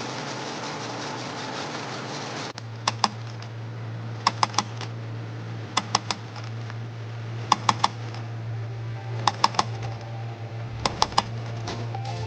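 A stud welder hums steadily, with sharp snapping zaps in quick groups of two to four about every second and a half, as pull pins are welded onto the bare steel of the dented quarter panel. For the first couple of seconds, before the welder hum starts, there is a steady rushing noise.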